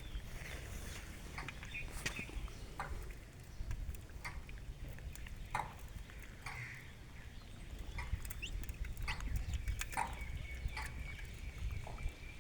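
Hen and chicks pecking and scratching at the ground for food: scattered short taps and ticks, with a few brief soft calls, over a steady low rumble.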